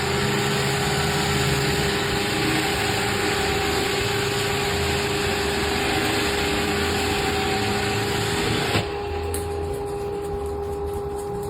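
A vehicle engine running steadily at constant speed: a loud hum with a steady tone in it. Shortly before nine seconds in, the hissy top end drops away and it gets a little quieter, while the tone carries on.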